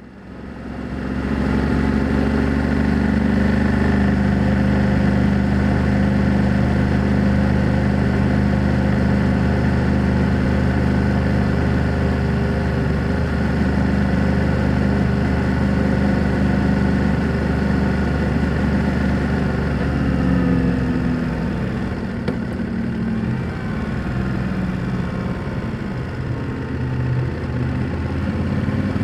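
BMW F 800 GS motorcycle's parallel-twin engine running with a raw exhaust note. It fades in and holds a steady note for about twenty seconds, then the pitch starts rising and falling and the sound becomes uneven.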